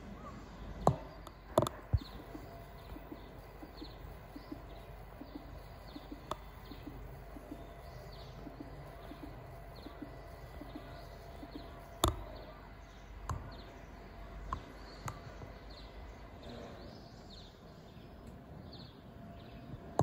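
Small birds chirping faintly, with many short, frequent calls over steady low background noise. Several sharp knocks cut in, the loudest about a second in and about twelve seconds in.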